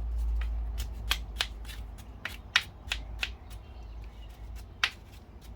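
Irregular short, sharp scratching clicks, a few a second, as a brake part is scrubbed clean by hand, over a steady low rumble.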